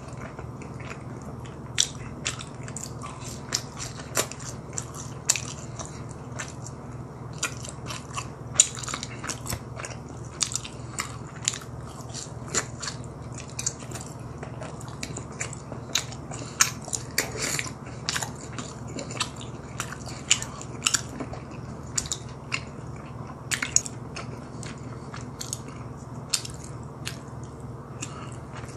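Close-miked chewing of a cheese ball, with frequent sharp crunchy and wet mouth clicks over a steady low hum.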